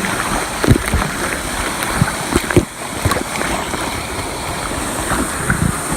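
Water splashing and sloshing close to the microphone as someone swims, with irregular heavy thumps, over a steady rush of moving water.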